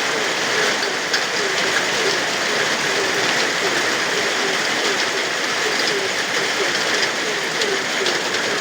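Steady rain falling, with frogs croaking over it in short, repeated calls, several a second.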